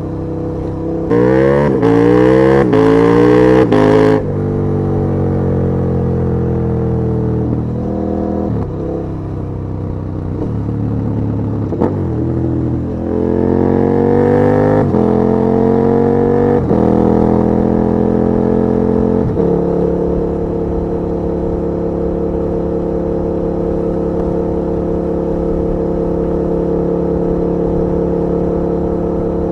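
KTM 1290 Super Duke R's V-twin engine accelerating hard about a second in, its pitch climbing in quick steps as it shifts up, then falling away as the throttle closes. It pulls up through the gears again midway, then settles into a steady cruising note.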